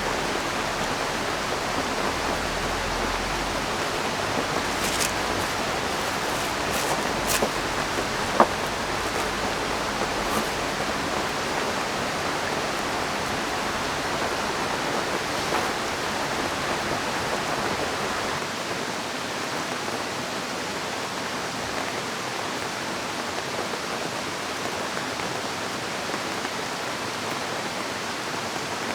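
Steady rush of a river with rain falling. A few short sharp taps come between about five and eight seconds in.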